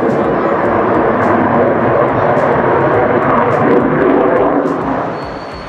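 Military jet's engine roar during a flypast, loud and then falling away about five seconds in.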